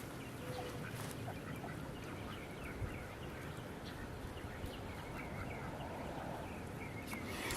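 Ducks quacking faintly, short calls scattered throughout over a steady outdoor background noise.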